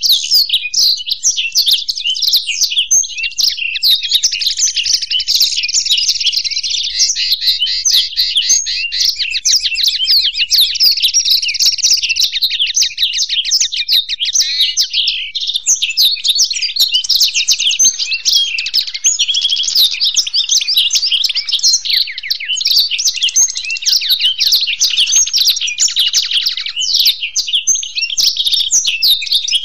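Blackthroat (black-throated canary) and European goldfinch singing together: an unbroken stream of fast twittering song with rapid trills and chirps.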